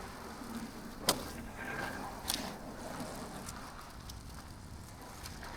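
Steady outdoor background noise with two sharp clicks, about one and two seconds in.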